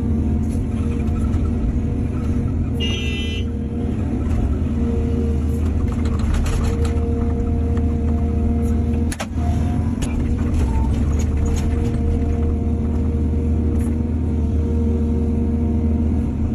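Heavy diesel machinery running steadily at a low, even pitch. A short high squeal comes about three seconds in, and a few sharp clanks follow later.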